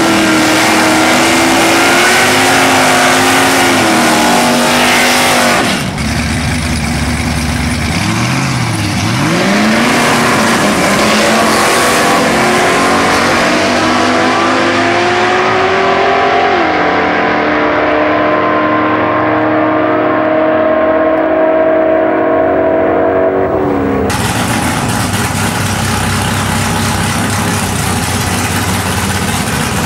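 Drag-race car engine revving, then launching and accelerating hard, its pitch climbing with a gear change about two-thirds of the way through and the sound growing duller as the car pulls away. It cuts off abruptly near the end to a steadier engine sound.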